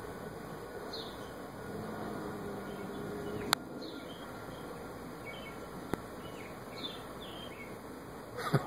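Outdoor ambience with small birds chirping now and then over a steady background hiss, a single sharp click about three and a half seconds in, and a short cluster of clicks with a low thump near the end.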